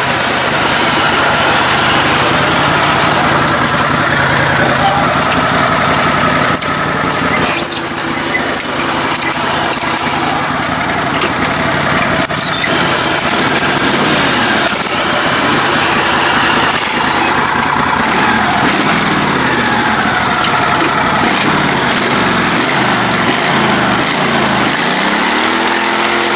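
Small engine of a lifted, modified riding mower running under load, its pitch rising and falling with the throttle, with scattered short knocks and clicks.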